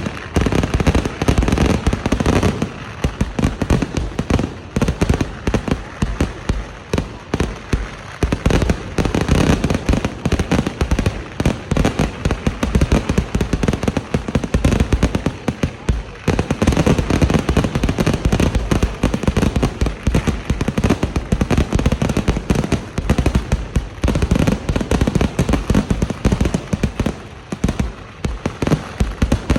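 Kerala temple fireworks (vedikkettu): a dense, continuous barrage of firecracker bangs, many a second, with a few brief dips in intensity.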